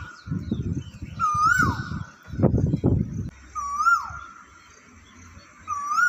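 A bird's whistled call, each note rising slightly and then dropping steeply, repeated about every two seconds (three times). Loud, uneven low rumbling noise fills the first half.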